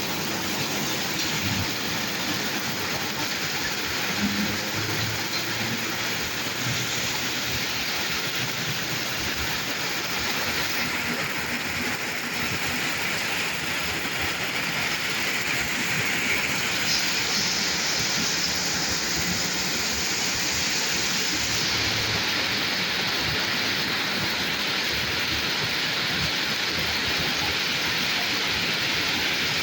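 Steady rain falling on a road: an even hiss that hardly changes.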